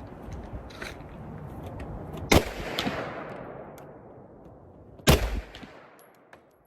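Two pistol shots about three seconds apart, the first trailing off in a long echo.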